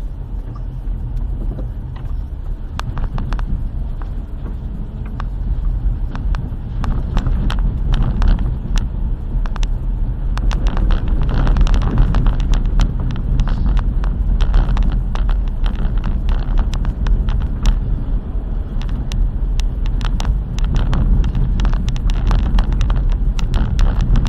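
Car driving over a corrugated, washboard-like unpaved road: a heavy low rumble with many sharp knocks and rattles from the suspension and body. It grows louder about six seconds in. The corrugations come from the road never being graded.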